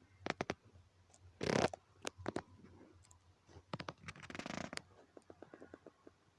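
Handling noises: scattered sharp clicks and a few short rustles, with a quick run of faint ticks near the end.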